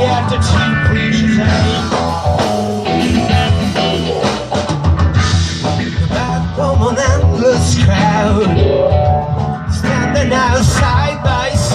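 Live rock band playing a song: drums and bass under a melody line that bends and wavers, most clearly in the second half.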